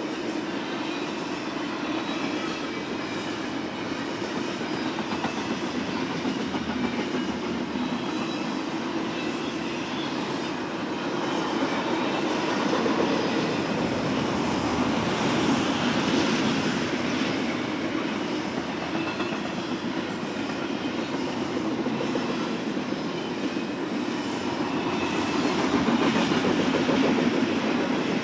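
Freight train cars of an intermodal train rolling past: a steady rumble and clatter of steel wheels on rail. It swells louder twice, in the middle and near the end.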